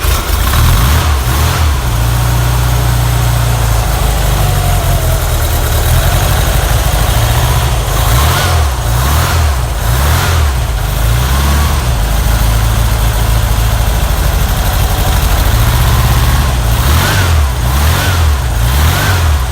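Freshly rebuilt Porsche 356 air-cooled flat-four engine running steadily and being blipped, with several quick revs about halfway through and again near the end.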